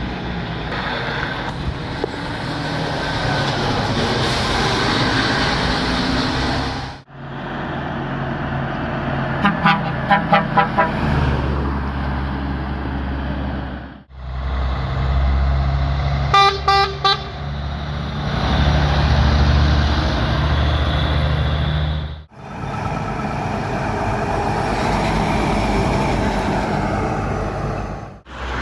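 Trucks passing on a road with engine rumble and tyre noise. A truck horn sounds in quick runs of short toots twice, about ten seconds in and again about sixteen seconds in.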